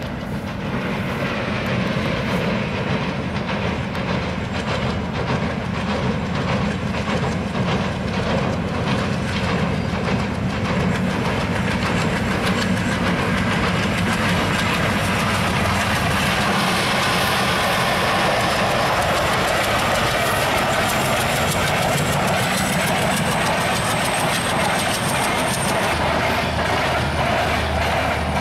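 Diesel-hauled passenger train running past, its wheels clacking steadily over the rail joints over a continuous rumble. A faint high whine rises slowly in the second half.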